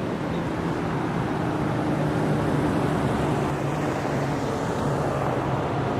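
Passing vehicle traffic: a steady rushing noise with a low engine hum running underneath.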